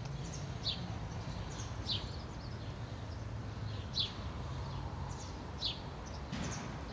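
A small bird chirping: short high chirps repeated every second or two, over a steady low background rumble.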